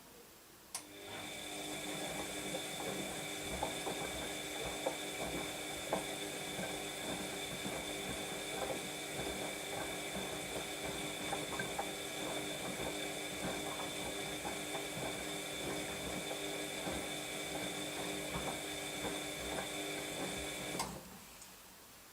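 Washing machine drum turning: the motor's steady hum and whine under irregular sloshing and tumbling of wet laundry. It starts with a click about a second in and stops abruptly near the end.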